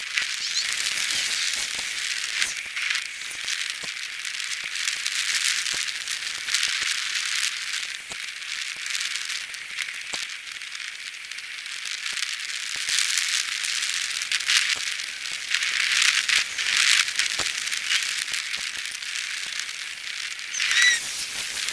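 Rattling and tyre-and-wind hiss from a moving bicycle, picked up by a camera mounted on the bike, with a steady stream of small clicks and knocks. A short squeak near the end.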